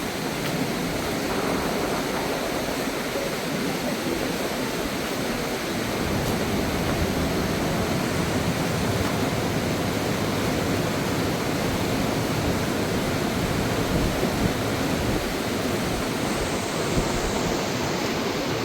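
Fast-flowing wild river rushing steadily, a dense, unbroken noise of water.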